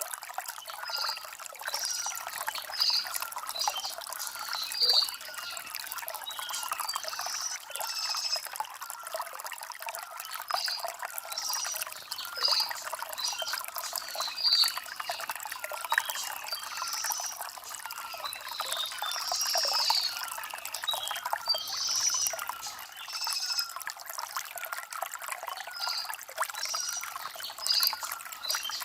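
Shallow stream trickling and gurgling over stones, a steady bubbling with no deep rumble.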